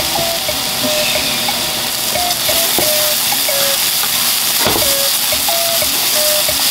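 Minced ginger and chopped white negi sizzling in sesame oil in a nonstick frying pan, stirred with a ladle. Two sharp knocks come about three seconds in and again near five seconds.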